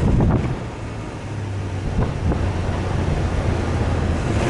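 Four-wheel-drive off-road vehicle driving: a steady low engine drone under a constant noisy rush.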